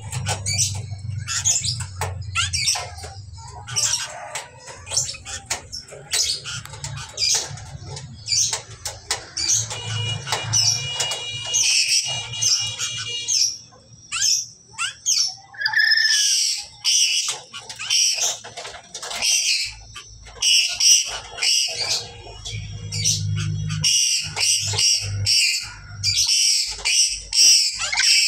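Black-capped lories calling: a long run of short, high-pitched shrieking calls, coming thicker and faster in the second half.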